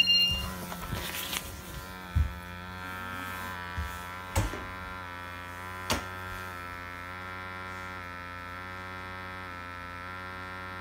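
Steady electric buzz of a small motor, with a few sharp knocks about two, four and six seconds in.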